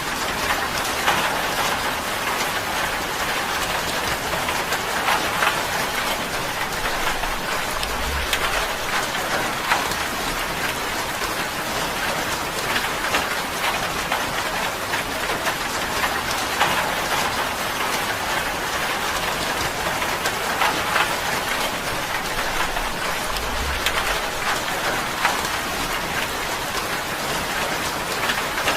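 Steady rain falling on a tin roof: a dense, even patter with many sharper individual drop hits.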